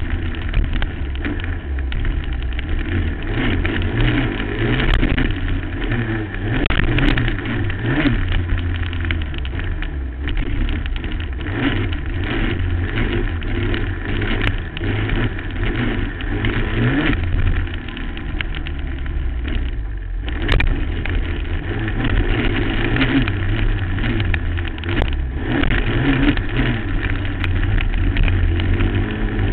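A 2008 Suzuki LT-R450 quad's single-cylinder four-stroke engine revving up and down as it is ridden hard over bumps and jumps, heard from a helmet camera. The sound drops away briefly about twenty seconds in.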